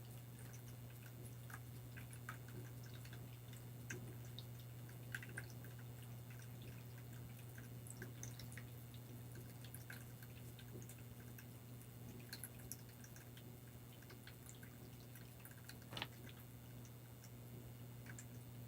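Water dripping in small, irregular drops over a faint steady low hum, with one louder drop about sixteen seconds in.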